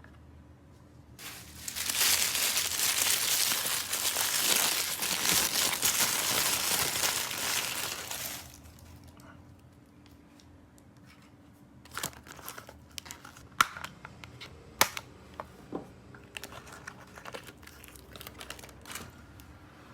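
Packaging being unwrapped for about seven seconds, crinkling and tearing loudly. About twelve seconds in, several sharp light clicks and taps follow, scattered over the next seven seconds.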